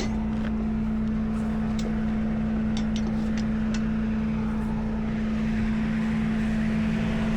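Tow truck's engine running steadily with a constant hum while the lift is raised, with a few light clicks in the first few seconds.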